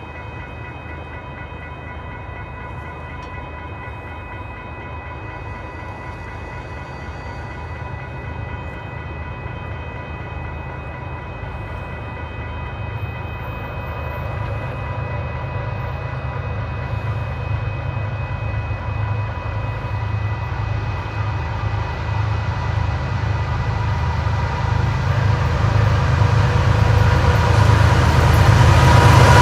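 Union Pacific diesel locomotive approaching at the head of a coal train, its low engine rumble growing steadily louder.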